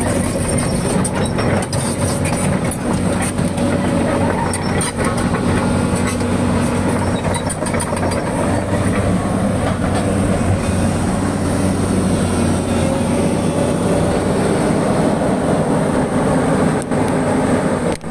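Excavator's diesel engine running steadily, with scattered clicks and knocks over the steady hum.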